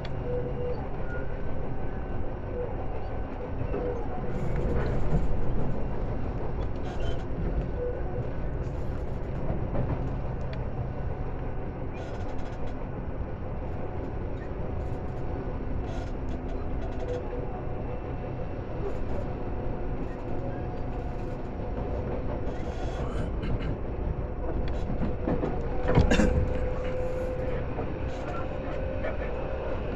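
Tobu 10030 series electric train running at speed, heard from inside the carriage: a steady rumble of wheels on rail with a constant hum, broken by rail-joint clicks. A louder knock comes about 26 seconds in.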